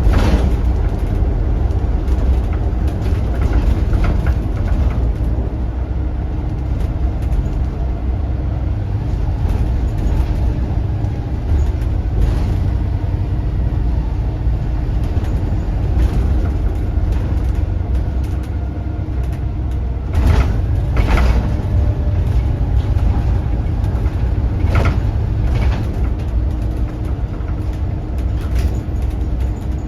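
Volvo B7RLE bus's turbocharged six-cylinder diesel engine running under way, heard from on board, with a faint steady turbo whistle above the engine rumble. A few sharp knocks and rattles come about twenty and twenty-five seconds in.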